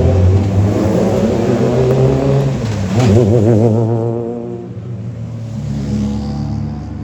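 Rally car engine revving hard, its pitch wavering quickly up and down about three seconds in, then dropping away as the car pulls off.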